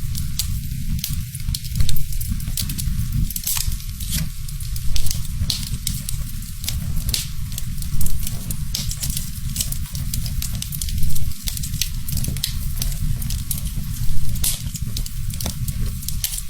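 Wood fire crackling in a fireplace: a steady low rumble with many sharp pops and snaps, swelling louder about every three seconds.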